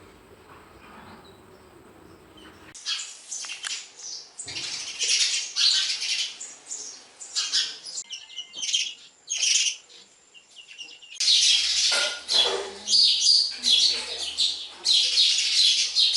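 Sparrows chirping in quick, repeated high-pitched notes. The chirping starts about three seconds in and grows louder and denser from about eleven seconds.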